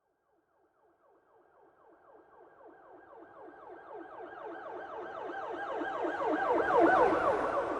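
Police car siren in a fast yelp, its pitch rising and falling several times a second. It fades in from silence and grows steadily louder, loudest near the end.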